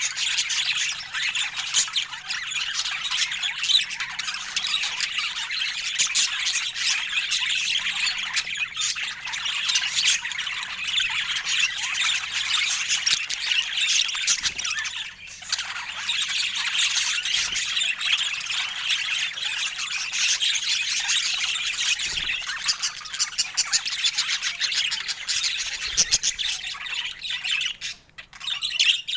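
Budgerigars chattering and squawking without a break, with a brief pause about fifteen seconds in and a short gap near the end.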